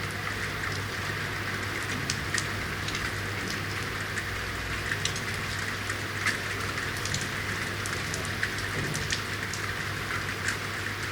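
Steady rain falling on city surfaces, with many sharp individual drops ticking and splashing close by over an even hiss. A constant low hum runs underneath.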